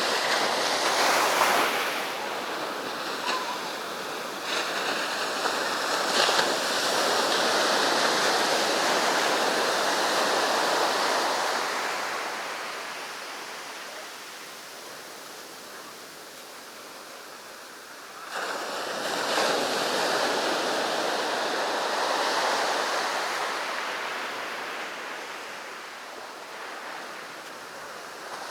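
Sea surf: waves breaking and washing up the beach, the rush swelling and slowly fading, with a new wave coming in suddenly about two-thirds of the way through.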